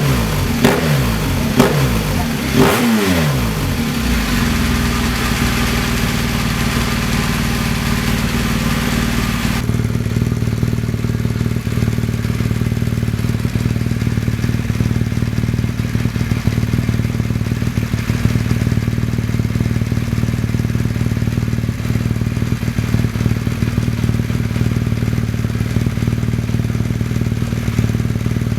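BMW R1200GS K50 liquid-cooled boxer twin through an Akrapovic slip-on silencer with the dB killer removed: a few quick throttle blips, then settling into a steady idle. About ten seconds in the sound turns suddenly duller and then holds steady.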